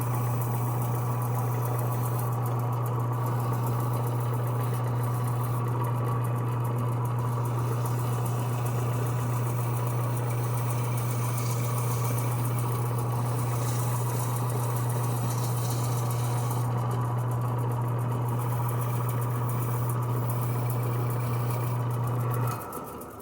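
Lathe running steadily with a strong low hum while a pedal-car handle spins on a pen mandrel and is sanded. Near the end the lathe is switched off and winds down.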